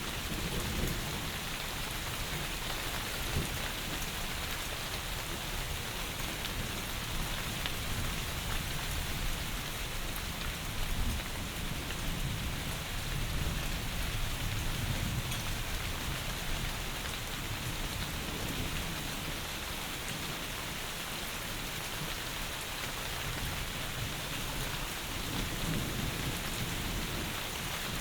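Heavy rain falling in a steady, dense hiss, with low rumbles swelling and fading now and then beneath it.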